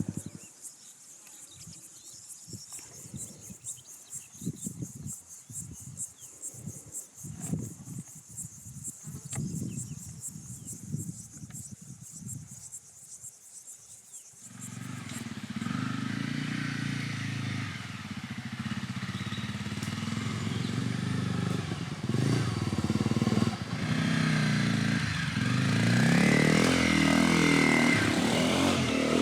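Honda CRF250L single-cylinder motorcycle engine on an off-road ride. The first half is faint, with uneven low rumbles. About halfway through it turns to a steady, louder engine sound that grows toward the end.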